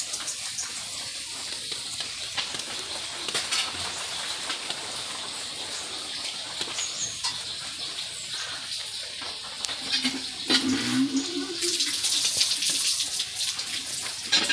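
Rain falling steadily as an even hiss, becoming louder and heavier about twelve seconds in.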